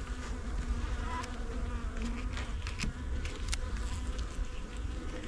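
Honey bees buzzing steadily around an open hive during an inspection, with a few light clicks.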